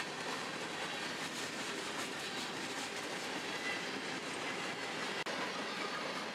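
Freight cars of a passing freight train rolling by, a steady rumble of steel wheels on rail with clicks of wheels crossing rail joints. A split-second gap a little past five seconds in.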